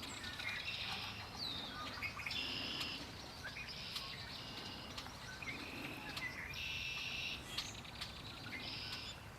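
Songbirds singing: short, rapid, high-pitched trills, each under a second long, repeating every second or two, over a steady low background.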